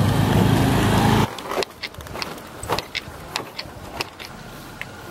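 Motorbike engine running steadily, cutting off abruptly about a second in, followed by a scatter of light clicks and taps.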